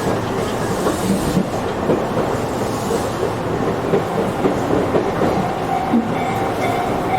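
Tobu 8000 series electric train running, heard from inside the car: steady rumble of wheels on rail with scattered clacks, and a faint steady tone coming in near the end.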